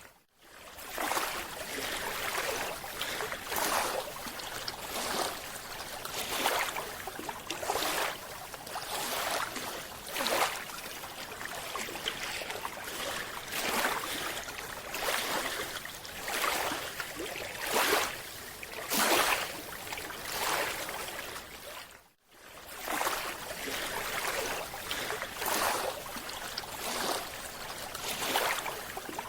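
Rushing water noise that swells and fades in a steady rhythm, about once every second or so, cutting out briefly twice.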